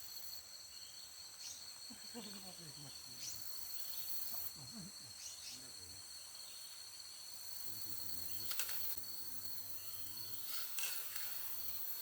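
Steady high-pitched drone of a forest insect chorus, crickets or cicadas, with a couple of brief sharp sounds in the second half.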